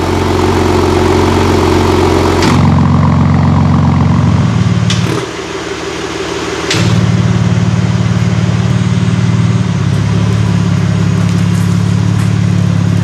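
BMW M4 G82 Competition with an Akrapovic titanium slip-on exhaust, idling with a deep, steady note. It comes in several short clips cut together, so the note changes abruptly about two and a half, five, seven and ten seconds in, with a briefer, thinner stretch in the middle.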